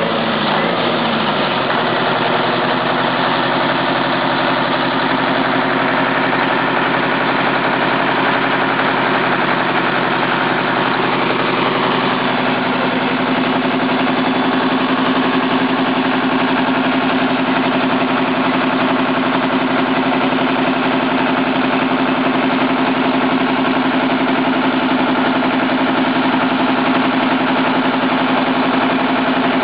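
Detroit Diesel V8 turbo diesel engine idling steadily, running again after ten years laid up. Its pitch dips briefly about a second in, then holds steady.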